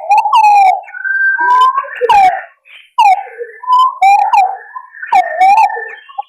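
Green pigeons calling: several overlapping whistled notes that waver and glide up and down, in phrases broken by short pauses.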